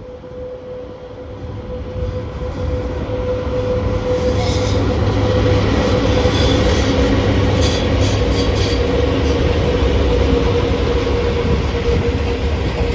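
A VL80S AC electric locomotive with a freight train approaches and runs past: a steady electrical hum with a whine from its equipment, growing louder over the first four seconds or so, then holding. A few brief high squeaks, likely wheels on the rail, come between about four and nine seconds in.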